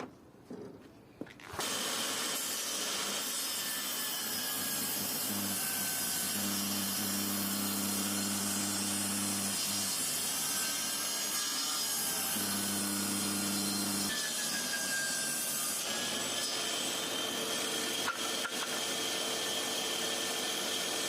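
A power tool cutting wood starts about 1.5 s in and runs steadily, with a lower hum coming in twice in the middle as it works through the wood.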